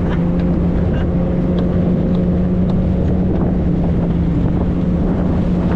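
90-horsepower Evinrude outboard motor on an inflatable boat running at a steady speed, with a constant hum and wind buffeting the microphone.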